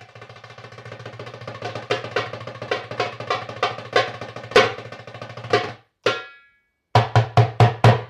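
Solo drumming: a fast roll that builds in loudness for about six seconds over a deep ringing drum tone, one more stroke, a short pause, then five quick strokes that end the piece.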